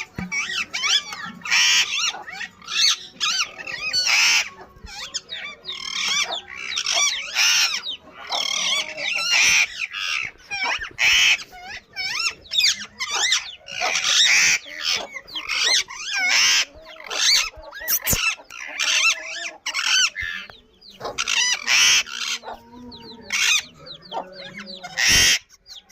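Ring-necked parakeet chicks calling over and over in short, raspy, wavering bursts, a steady chatter of chick calls.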